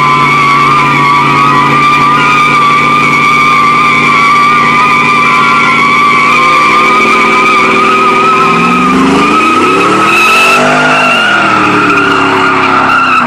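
Chevrolet Avalanche pickup doing a burnout on wet pavement: the spinning tires squeal in a steady high tone over its V8 engine held at high revs. About seven seconds in the engine revs climb, peak, then drop back while the squeal goes on.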